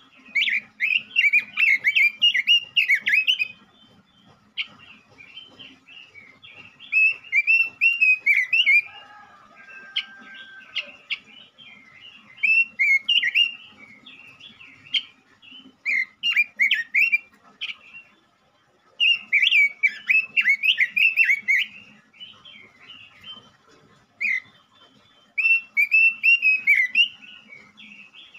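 Male Pekin robin (red-billed leiothrix) singing: loud, rapid warbling phrases a few seconds long, repeated with short pauses between them.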